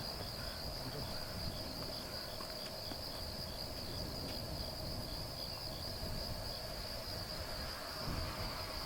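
A steady, high-pitched chorus of insects trilling without a break, with a few faint short chirps repeating in the first half, over a low rumble of wind.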